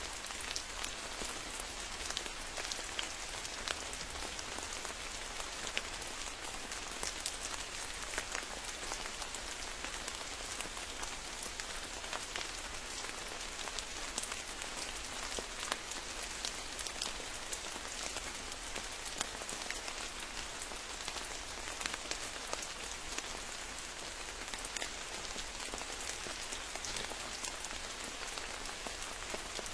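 Steady rain falling, with many individual drops close by heard as sharp ticks over an even hiss.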